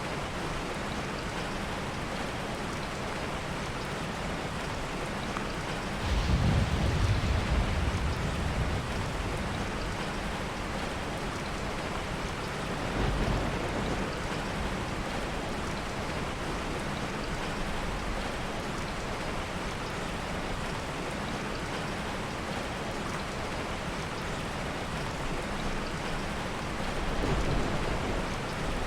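Steady heavy rain, with low rolls of soft thunder: the loudest about six seconds in and lasting a few seconds, a weaker one near the middle, and another near the end.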